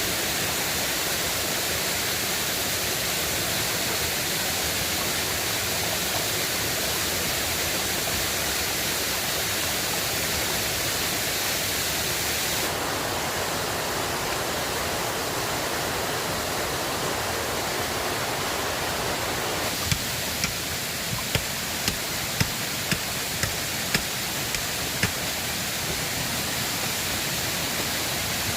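River water rushing steadily, its tone changing abruptly twice. About two-thirds of the way through comes a run of about nine sharp knocks or cracks over some five seconds.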